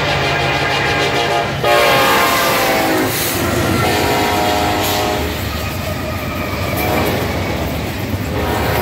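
Diesel freight train passing close by: the lead locomotive's air horn sounds, its pitch falling as the engine goes past about two seconds in, with more horn a couple of seconds later. The locomotives rumble by, followed by the clatter of double-stack intermodal cars on the rails.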